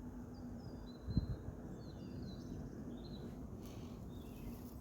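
Small songbirds chirping and twittering over a steady low outdoor background hum, with a brief low thump about a second in.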